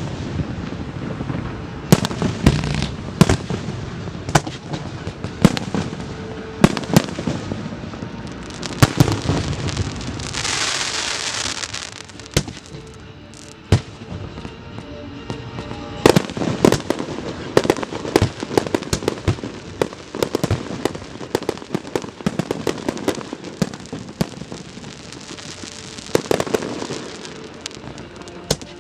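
Fireworks going off in rapid succession, many sharp bangs and crackles. A loud hissing rush rises about ten seconds in, and a softer one comes near the end.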